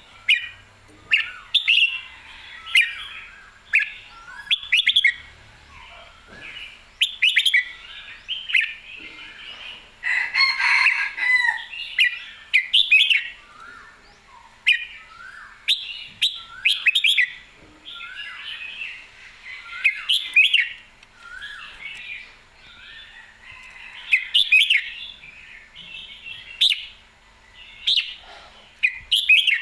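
Red-whiskered bulbul singing: short, bright whistled phrases repeated every second or two with brief pauses.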